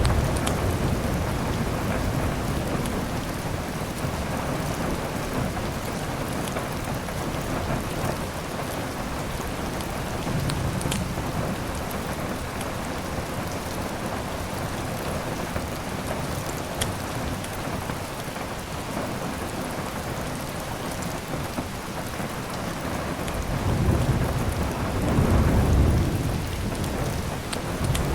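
Steady heavy rain, with rolling thunder rumbling low underneath: one rumble fading at the start, a faint one about ten seconds in, and a longer, louder one near the end.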